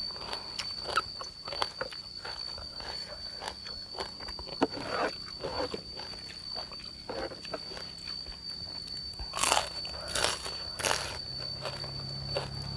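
Close-up chewing and crunching of crispy pork belly crackling (moo krob), a run of small crunches with three louder, sharp crunches about three-quarters of the way through. A steady high-pitched whine runs underneath.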